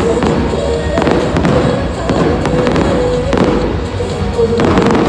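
Aerial fireworks bursting in quick succession: many overlapping bangs and crackles, with music playing underneath.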